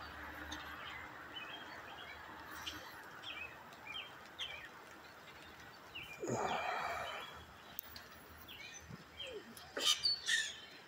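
Small birds chirping repeatedly with short high calls over a steady outdoor hiss. There is a brief louder rush of noise about six seconds in, and a few sharp knocks near the end.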